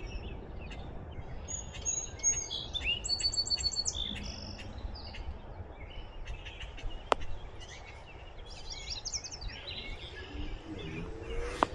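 Songbirds chirping and trilling in short high phrases, in two spells, over a steady low noise; a single sharp click about seven seconds in.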